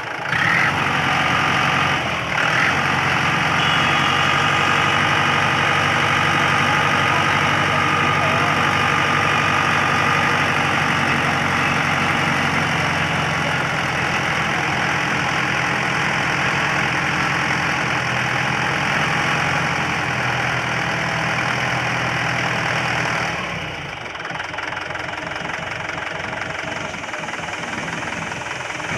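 Mahindra 595 tractor's diesel engine running steadily at a raised speed, then dropping back to a quieter idle a few seconds before the end.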